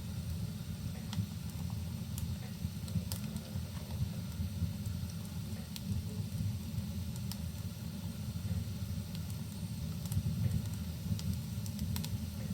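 Fireplace fire crackling: scattered sharp pops and crackles over a steady low rumble.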